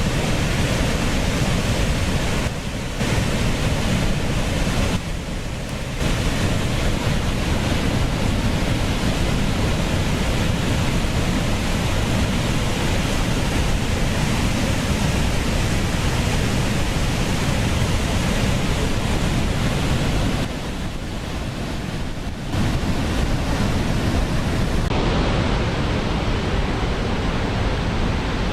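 Waterfall rushing: a loud, steady roar of falling water. It drops briefly in level a few times, at about 3, 5 and 21 seconds in, and turns a little duller after about 25 seconds.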